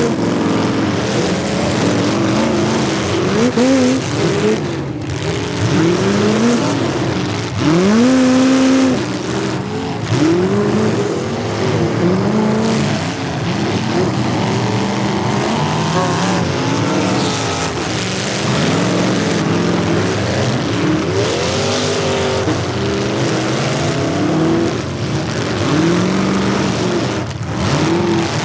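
Several demolition derby cars' engines revving hard at once, each pitch rising and falling over and over as the cars accelerate and back off. A couple of brief dips break the din.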